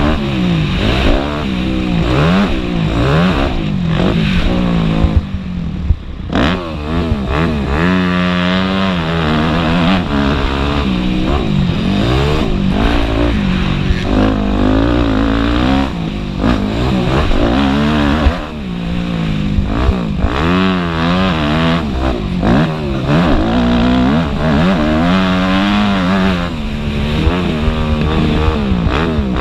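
Several motocross bikes' engines revving up and down as they race, their pitches rising and falling and overlapping, with repeated gear-by-gear climbs and drops in engine speed.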